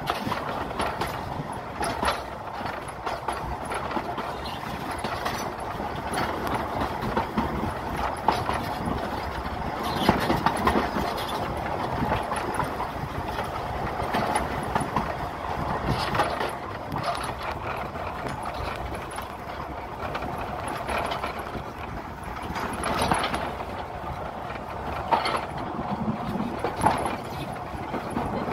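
Narrow-gauge forest railway train running along the track, heard from the cab: the locomotive's engine runs steadily, with irregular knocks and clicks from the wheels on the rails.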